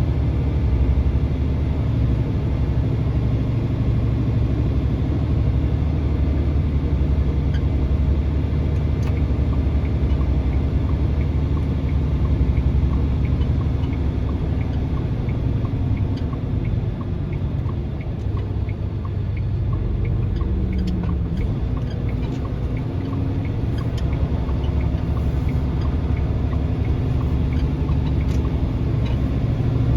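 A vehicle's engine running with a steady low rumble while driving.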